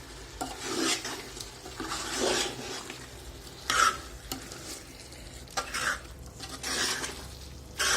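A cooking spoon stirring a thick chicken curry masala in a pot, scraping the pan in short strokes about six times, over a faint sizzle from the frying.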